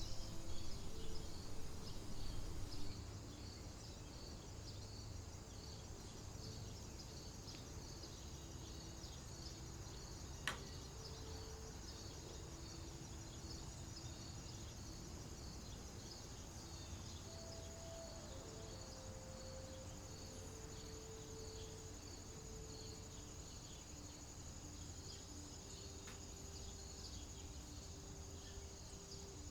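Insects such as crickets chirping steadily, with one high trill held throughout and a pulsing chirp repeating a little more than once a second. Under them is a low rumble, louder in the first few seconds, and there is a single sharp click about ten seconds in.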